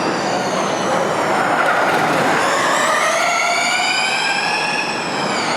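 Formula E race cars passing with the high electric-motor and gearbox whine of their drivetrains, over tyre and road noise. The whine falls at first, then climbs steadily in pitch from about two seconds in as a car accelerates, and drops again near the end.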